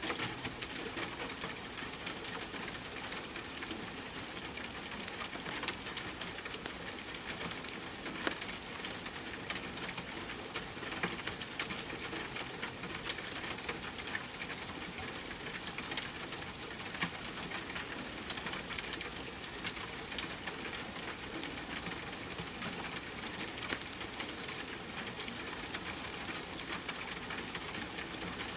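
Steady rain mixed with a crackling fireplace: an even hiss with many scattered sharp clicks and pops throughout.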